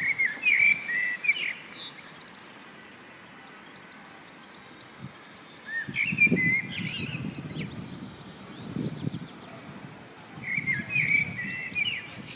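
A songbird singing a short warbling phrase three times, several seconds apart, with fainter high chirps between. An intermittent low rumble runs underneath.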